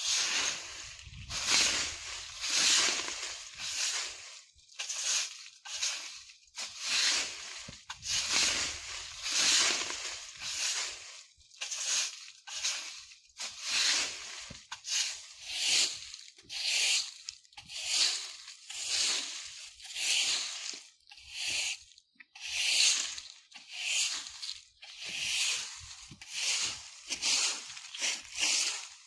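Broom sweeping dry fallen leaves over the ground: a steady run of rustling, scratchy strokes, about one a second.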